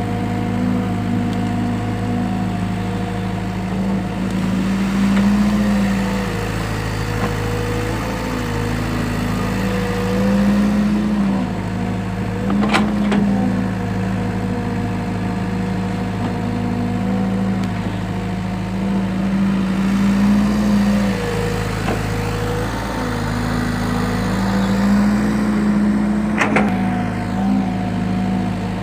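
Excavator's diesel engine running steadily, its pitch rising briefly several times as it takes load. Two sharp knocks, one about halfway through and one near the end.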